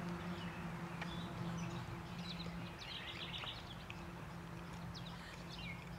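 Birds chirping in short high notes, over a faint steady low hum.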